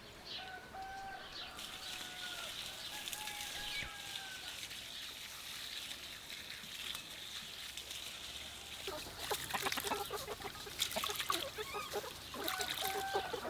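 A rooster crowing: a long call in several drawn-out segments in the first few seconds, and another crow starting near the end. In between, from about nine seconds in, a few seconds of busy clucking and scuffling from the flock, over a steady high hiss.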